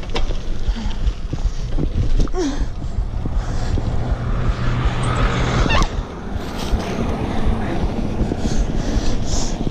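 Wind rushing over the microphone of a camera carried on a moving bicycle, a steady rumbling noise with a few faint clicks.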